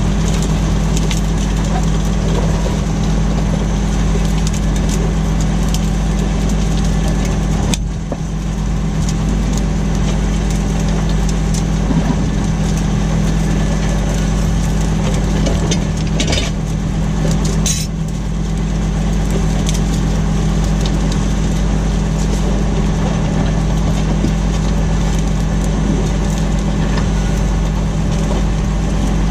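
Tractor engine running steadily under load while ploughing: a constant low drone with small clicks and rattles scattered over it. The sound dips briefly twice, once about a quarter of the way in and once just past the middle.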